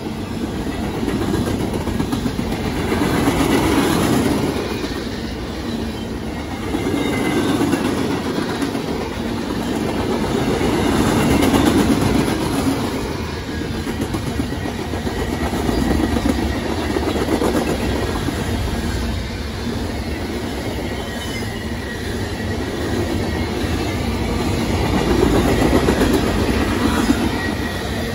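A CSX mixed freight train's covered hoppers and tank cars rolling past on steel wheels: a continuous rumble and rattle of wheels on rail that swells and eases every few seconds as the cars go by.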